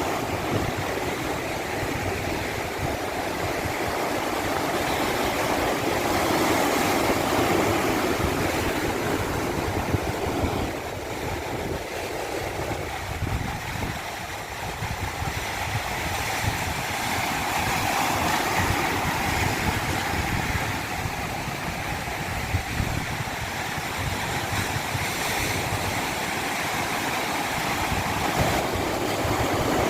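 Continuous rushing water, a steady noise that swells and eases slowly, dipping a little about halfway through.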